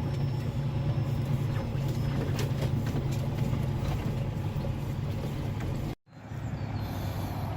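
Semi-truck diesel engine running with a steady low drone, with scattered light ticks and rattles over it early on. The sound drops out for a moment about six seconds in, then the drone resumes.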